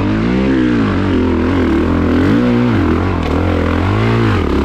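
2022 Honda CRF450RX's single-cylinder four-stroke engine revving up and falling back about five times in short bursts of throttle while the dirt bike is ridden.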